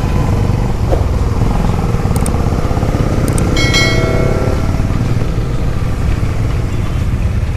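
Motorcycle engine running at road speed, with heavy wind noise on the microphone. A brief high-pitched tone with several overtones sounds about three and a half seconds in.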